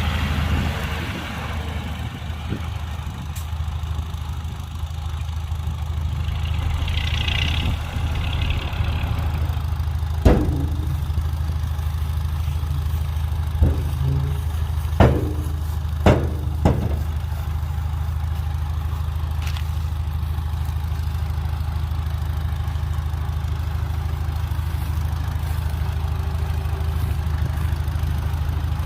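Heavy diesel engine of earthmoving machinery running at a steady idle. Five sharp knocks come in the middle stretch, the first and loudest about ten seconds in.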